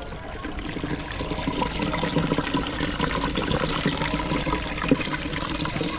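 Running water trickling and splashing steadily, as from a small stream or waterfall feature.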